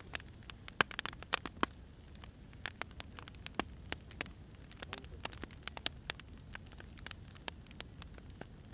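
Firewood burning, crackling with irregular sharp pops and snaps, several a second, over a steady low rumble from the fire.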